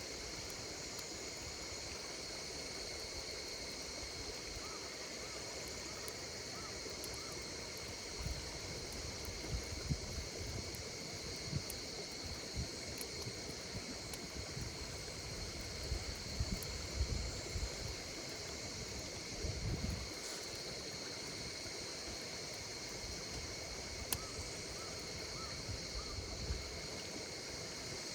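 Insects chirping steadily in several high-pitched bands over a campfire burning with a low crackle and hiss. From about 8 seconds in until near the end, irregular soft, low puffs and pops come and go.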